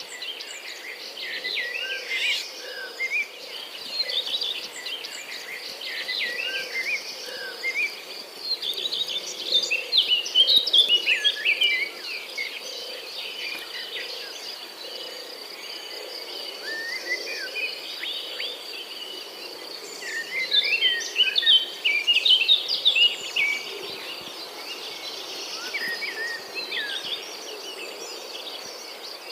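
Outdoor birdsong: several birds chirping and warbling in quick runs, busiest about a third of the way in and again past two-thirds, over a steady high insect trill.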